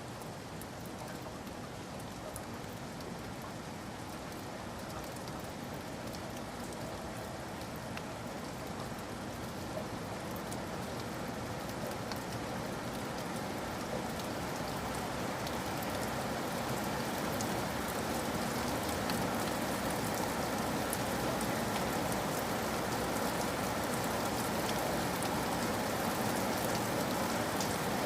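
Steady rain falling, an even hiss with scattered drop ticks, slowly growing louder.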